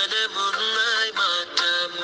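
Radio station jingle: music with a sung, synthetic-sounding vocal melody.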